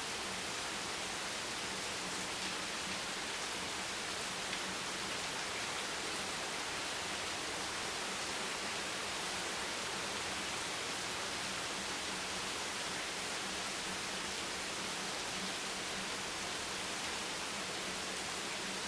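Steady rain falling as an even, unbroken hiss with no separate drops standing out, over a faint low hum.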